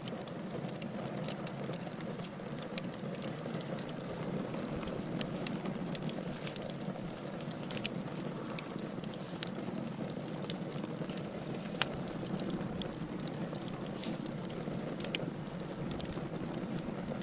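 Wood fire burning in a fireplace: irregular sharp crackles and pops from the burning logs over a steady low rush of flame.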